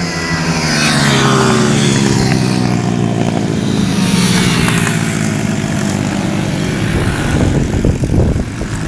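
Single-cylinder pit bike engine running, its pitch rising and falling with the throttle. Near the end the sound turns rough and choppy for about a second.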